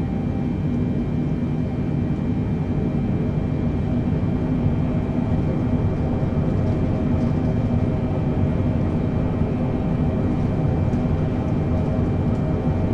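Boeing 747-8 in its takeoff climb: a steady roar of engines and rushing air, with a few constant hums, holding the same level throughout.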